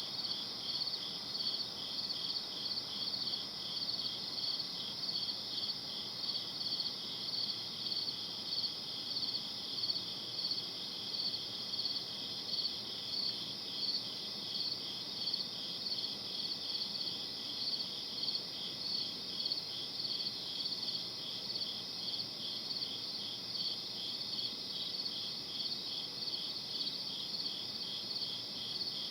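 Crickets chirping in a steady night chorus: a high, continuous trill with an even pulse of about two to three chirps a second.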